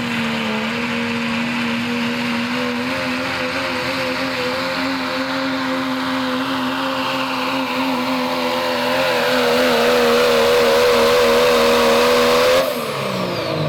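Pro Stock diesel pickup truck pulling a sled at full throttle, the engine held at a steady high pitch that grows louder and wavers under load. About 12.5 seconds in the throttle is cut and the engine falls away sharply, with a high whine sliding down as it winds off.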